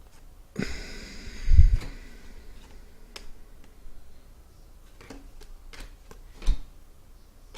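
Hands handling trading cards and packaging on a table: a short crinkly rustle, then a heavy thump. After that come a few light clicks and taps, and another thump near the end.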